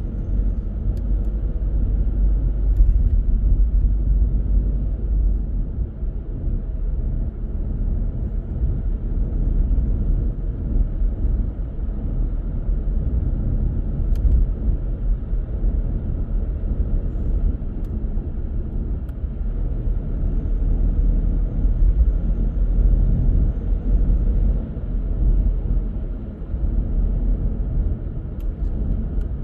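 A car driving along the road: a steady low rumble of tyre, engine and wind noise, as picked up by a dashcam.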